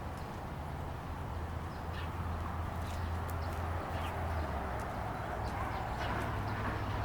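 Outdoor park ambience: a steady low rumble of distant traffic, with scattered faint, short songbird chirps.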